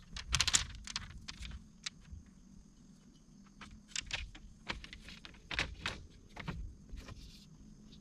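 A series of irregular sharp clicks and taps, about a dozen over several seconds and loudest near the start, over a faint steady high-pitched hum.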